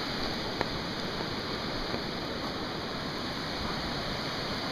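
Steady rushing roar of a river in flood pouring across and through a washed-out road.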